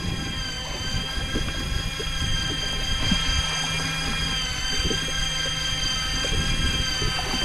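Daiwa Seapower electric fishing reel's motor whining steadily as it winds line up from deep water, the pitch sagging briefly about four and a half seconds in, over a low rumble.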